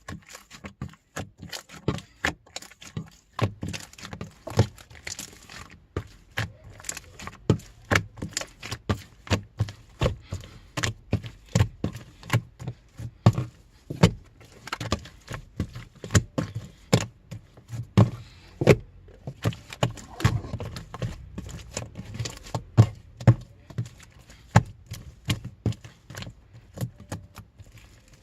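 Pink slime being squished and poked by hand, giving a run of irregular sharp pops and clicks, a few a second.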